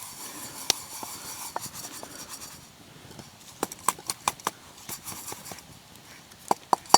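Irregular sharp clicks and light knocks over a faint hiss, bunched in a quick cluster about halfway through and again near the end.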